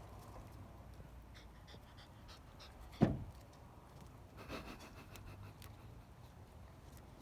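Bodeguero andaluz puppies panting as they wrestle in play, with a few faint high squeaks and one sharp thump about three seconds in.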